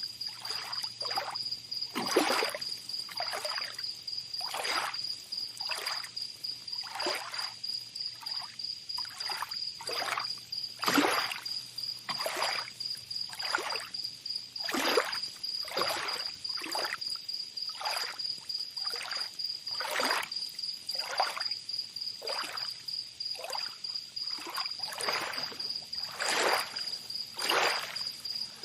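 Small waves lapping at the water's edge in a quick run of short splashing swishes, over a steady, high, pulsing insect trill.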